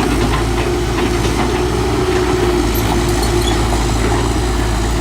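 Heavy diesel engine of a construction machine running steadily, a constant low rumble with a steady hum over it.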